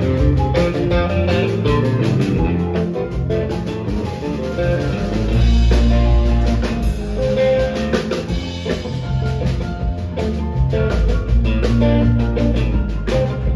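A four-piece rock band of electric guitar, bass, keyboards and drums playing an instrumental passage without vocals, with a heavy bass line and steady drumming.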